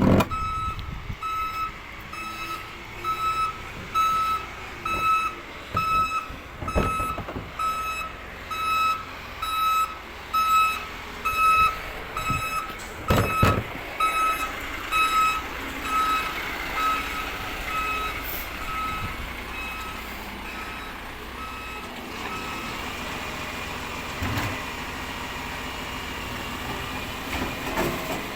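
Waste truck reversing: its back-up alarm beeps steadily about twice a second over the running engine, then fades out after about 20 seconds. Two loud knocks stand out, one about seven seconds in and one about thirteen seconds in.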